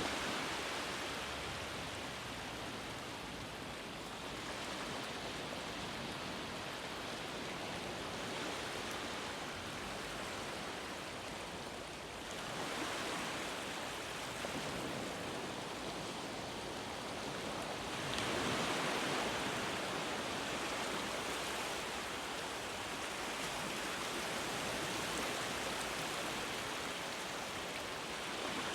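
Ocean waves washing in, a continuous surf hiss that swells as waves break, most strongly about twelve and eighteen seconds in.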